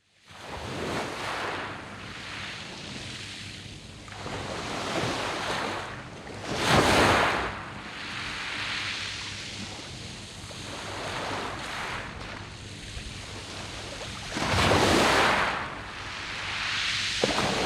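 Sea waves breaking on a round-pebble beach and washing back over the stones, rising and falling, with two bigger waves crashing about seven and fifteen seconds in.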